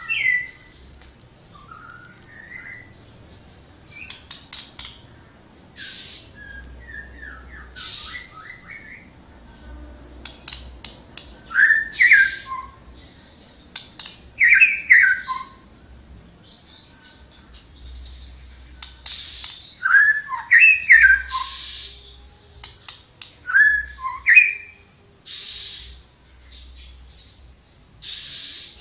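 A tledekan songbird singing vigorously: short, loud phrases of whistled notes sweeping up and down, repeated every few seconds, with scratchy notes in between.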